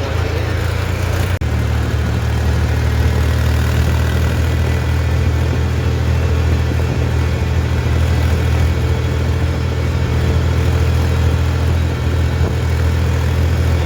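Tractor engine running steadily with a loud, low drone, with a brief dip about a second and a half in.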